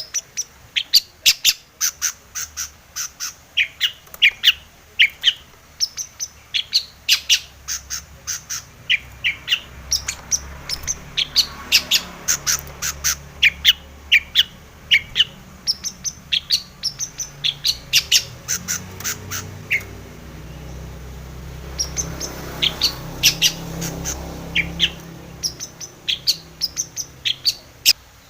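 Long-tailed shrike (cendet) song: a rapid run of short, sharp, high chattering notes, several a second, with a brief lull about twenty seconds in. A faint low rumble sits underneath through the middle.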